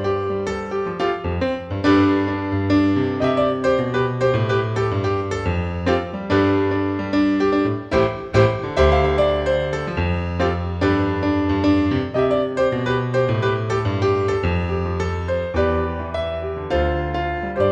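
Keyboard music: a melody of struck notes played over held low bass notes, with no voice.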